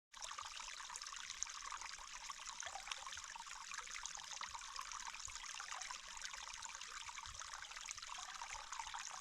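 Water trickling steadily, a soft continuous hiss and patter.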